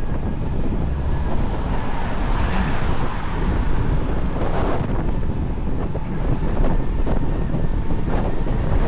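Strong wind buffeting the microphone of a handlebar-mounted camera, a loud, steady, heavy rumble.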